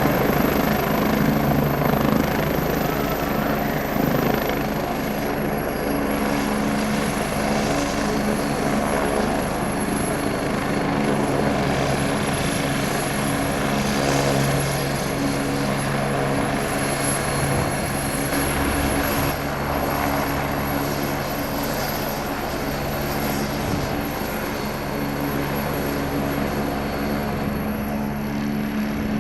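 Agusta A109E Power twin-turbine helicopter running steadily, with a thin high turbine whine over the lower rotor and engine hum. The whine drops slightly about four seconds in and then holds steady.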